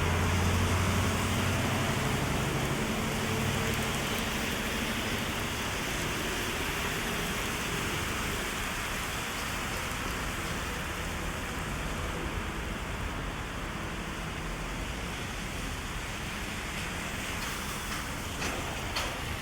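Heavy rain falling steadily on an umbrella and the street around it. A low hum is heard over the first few seconds and fades out.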